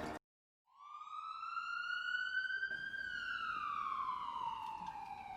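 A siren wail that starts about a second in: one long tone that rises slightly in pitch, then slowly falls.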